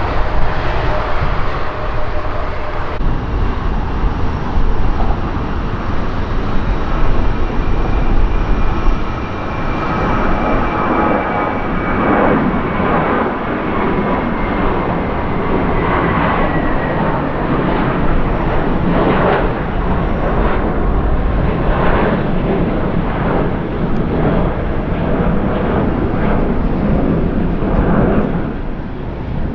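Jet airliner engines running loud and steady, a dense rush of noise with a high engine whine that slowly falls in pitch through the middle.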